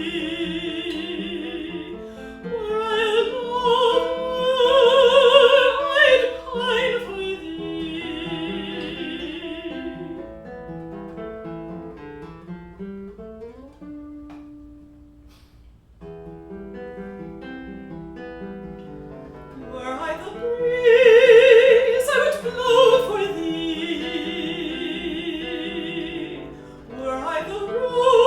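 Classical art song: a singer in operatic style, with wide vibrato, over a plucked acoustic guitar accompaniment. About ten seconds in the voice drops out and the guitar plays alone, and the voice comes back near the twenty-second mark.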